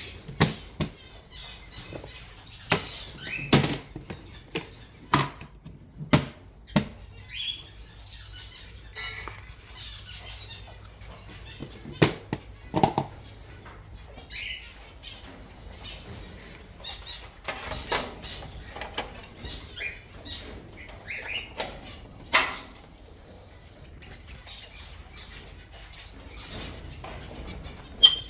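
Small aviary birds fluttering about with scattered chirps, among many short sharp clicks and knocks.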